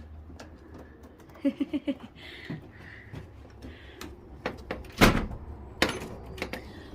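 Pigeon loft door being pushed and knocked to close, two loud knocks about five and six seconds in with smaller rattles around them; the door is sticking and won't shut easily.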